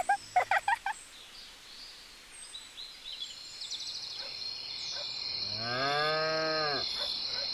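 A cow moos once, one long call of over a second near the end, over a steady high chirring of crickets that comes in partway through.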